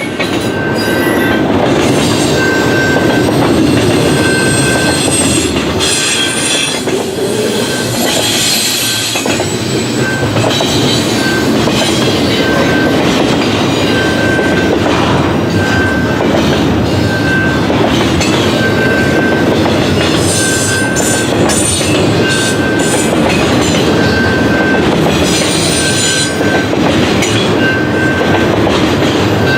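Long intermodal freight train's cars rolling past, wheels clattering over the rail joints with spells of high wheel squeal. A short ringing tone repeats about once a second throughout.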